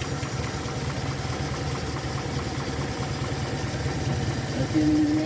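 Toyota 7K four-cylinder engine idling steadily, freshly installed with its cylinder head skimmed. A short steady hum rises over it near the end.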